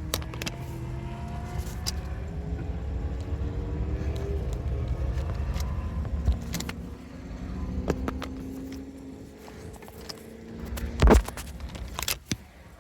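Porsche 986 Boxster's flat-six engine running and pulling, its pitch rising gently over the first few seconds before the sound drops off about ten seconds in. Sharp knocks and clicks come and go, the loudest a thump about eleven seconds in.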